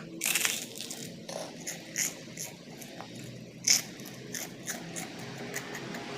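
Close-up eating sounds: a scrape in the first second, then scattered sharp clicks and crunches of chewing and handling food, the loudest a little under four seconds in.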